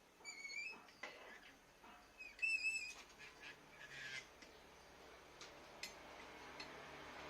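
A bird calling twice, two short wavering high-pitched calls about two seconds apart, with a few faint clicks.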